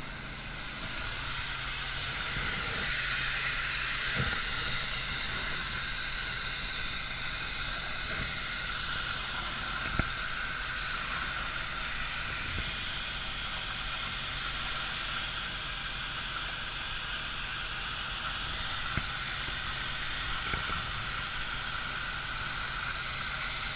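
Steady hissing rush, like water running or spraying under pressure, over the low steady hum of a running engine, with a sharp knock about ten seconds in and another near nineteen seconds.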